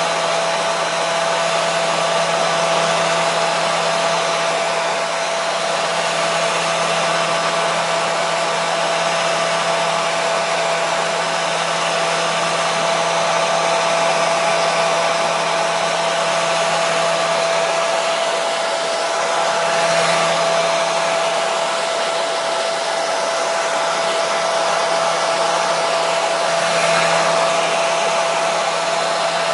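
Hair dryer running continuously at a steady setting: an even rushing whoosh of air with a steady motor hum underneath.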